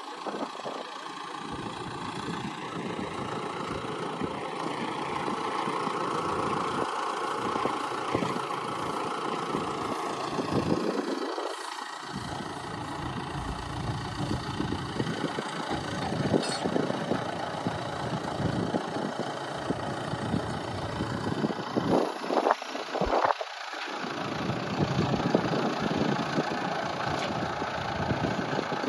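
Vehicle engine running steadily, with gusts of wind buffeting the microphone in uneven low rumbles.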